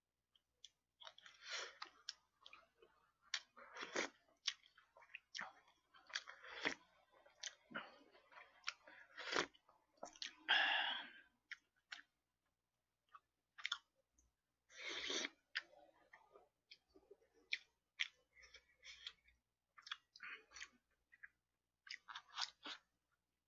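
A person chewing food close to a microphone, with wet mouth smacks and many short sharp clicks throughout and a few longer breathy bursts.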